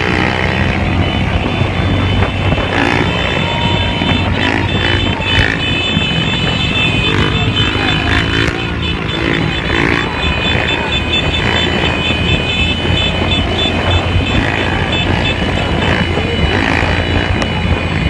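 Motorcycle engines running and revving, the pitch rising and falling several times, with music playing along.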